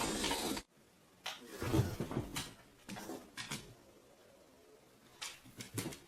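Loud rubbing and scraping that cuts off suddenly about half a second in, followed by a few scattered soft knocks and rustles.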